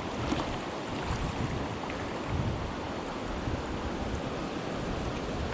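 Steady rushing noise, with uneven low gusts of wind buffeting the microphone.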